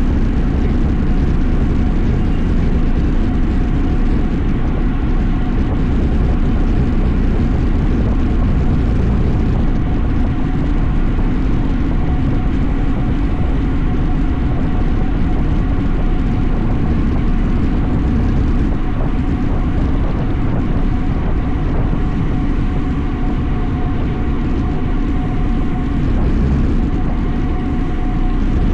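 Steady wind rumble on the microphone of a road bike being ridden, with a faint steady hum from the moving bike.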